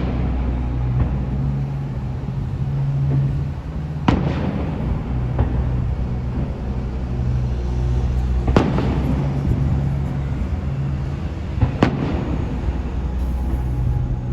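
Fireworks shells bursting in the sky: sharp bangs that echo away, the loudest about four seconds in, again past eight seconds and near twelve seconds, with a few smaller pops between, over a steady low rumble.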